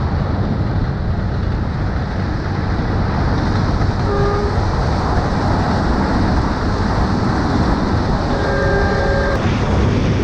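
Motorbike on the move, with a steady engine and road rumble and wind on the microphone. A short horn beep comes about four seconds in and a longer one near nine seconds.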